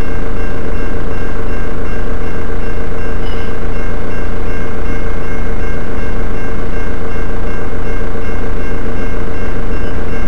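Freight train of grain hopper wagons rolling past at a level crossing: a very loud, unbroken noise of wheels on rail, with steady ringing tones over it.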